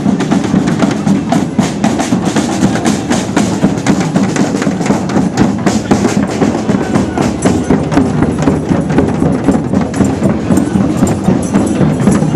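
Drums playing a fast, steady beat.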